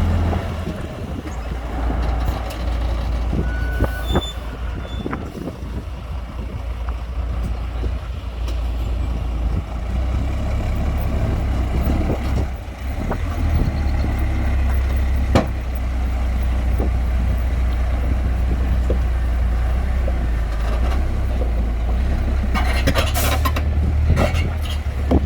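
Heavy diesel construction machinery running with a steady deep rumble, with scattered knocks and clanks and a short burst of hiss near the end.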